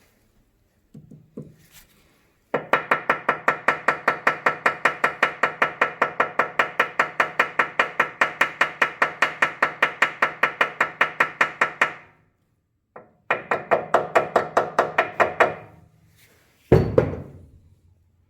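Rapid, even metallic knocking, about five blows a second, in a long run and a shorter run, then one heavy thud near the end. It is work on a seized Wisconsin TJD engine to break it loose.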